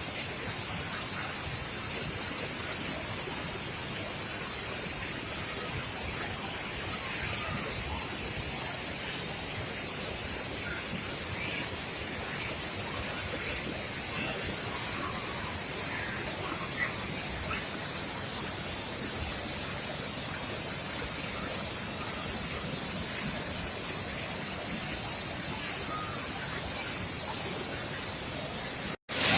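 Thirparappu waterfall's water pouring, a steady rushing noise, with faint voices of people scattered through it. The sound drops out for a moment near the end, then comes back louder.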